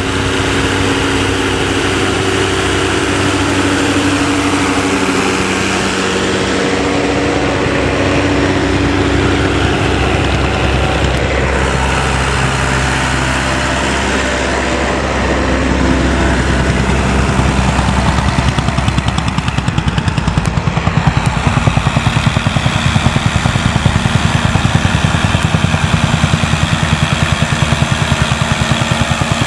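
Vintage tractor engines running under ploughing load. About halfway through, a louder engine with a rapid, even beat comes to the fore.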